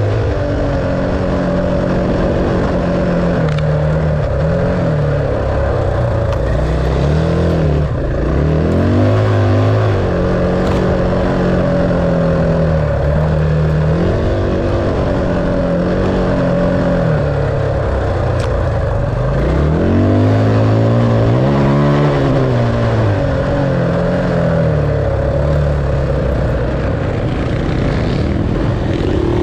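Dirt bike engine being ridden, its pitch repeatedly rising and falling as the throttle opens and closes and the gears change, over steady wind and riding noise.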